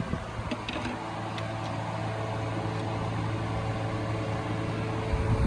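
Toyota Premio's 1ZZ four-cylinder engine running steadily at idle, a low even hum, with a few faint ticks in the first couple of seconds.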